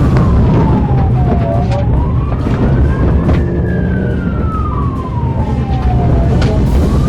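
Emergency vehicle siren on a slow wail: one tone falling, rising over about two seconds, falling again over about three, and starting to rise near the end. It plays over a heavy low rumble of traffic noise.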